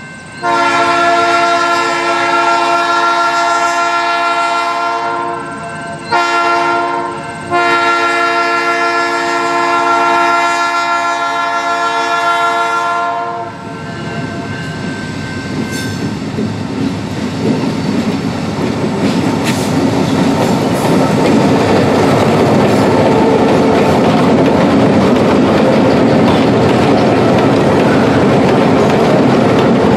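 Diesel locomotive horn sounding the grade-crossing signal: two long blasts, a short one and a long one. The Union Railroad locomotives and the ore hopper cars behind them then roll past with a steadily building rumble and clickety-clack of wheels on the rail joints.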